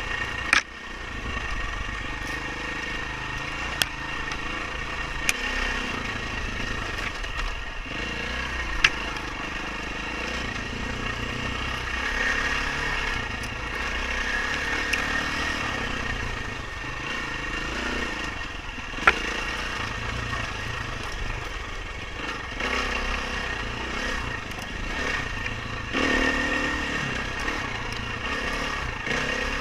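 Dirt bike engine running under a rider on an off-road race course, rising and falling with the throttle. Several sharp knocks cut through it, the loudest about 19 seconds in.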